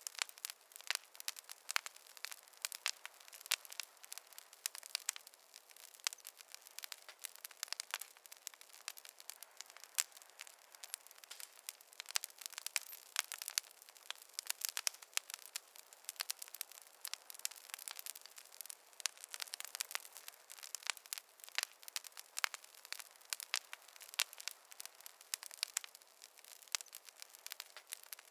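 Campfire crackling: a steady, dense run of sharp pops and snaps, several a second, over a faint hiss, with no low rumble.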